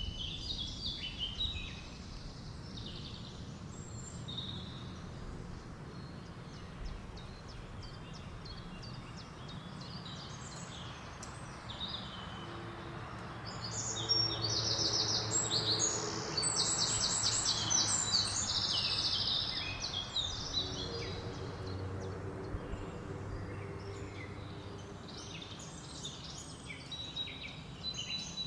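Songbirds chirping and singing in a forest, with a loud run of rapid trilled phrases in the middle, over a steady low wind rumble.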